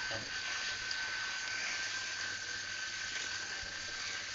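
Steady hiss with a faint, thin high-pitched tone running through it and no distinct events.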